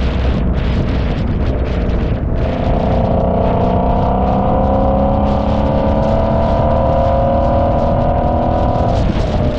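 Car engine running under load while driving, its pitch rising slowly as it pulls. The pitch breaks about two seconds in and again near the end, with steady road and wind noise underneath.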